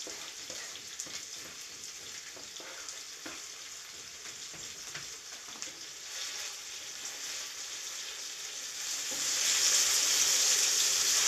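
Potatoes, onion and bell pepper frying in oil in a pan: a steady sizzle with scattered light clicks and scrapes. About nine seconds in, the sizzle grows louder as the mix is stirred with a wooden spatula.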